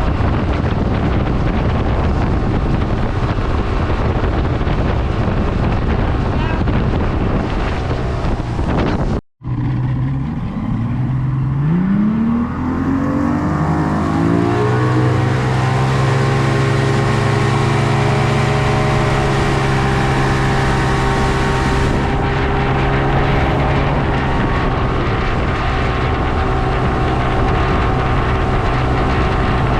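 Wind and water rushing past a moving motorboat. After a sudden cut about nine seconds in, the boat's engine rises in pitch as it speeds up over several seconds, then runs steadily at speed.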